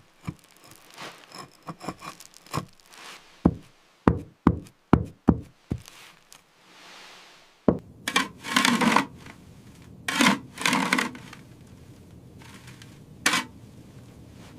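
A run of sharp wooden knocks, coming faster about four seconds in, then a few long rasping scrapes of wood being rubbed or worked.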